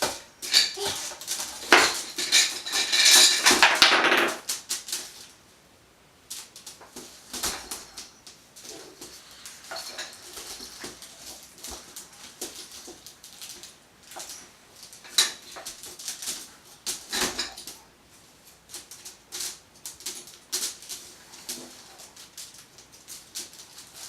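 A baby handling a basket: a dense run of scratching and rattling for about the first four seconds, then scattered clicks and knocks.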